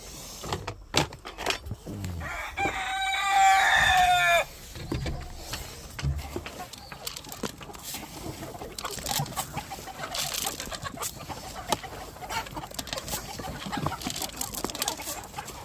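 A rooster crowing once, about two and a half seconds in, for about two seconds: the loudest sound. Hens cluck around it, with scattered light knocks and rattles.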